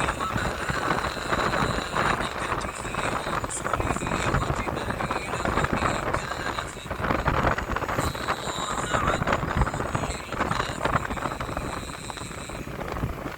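A vehicle on the move: steady engine and road noise with rumble, unbroken throughout.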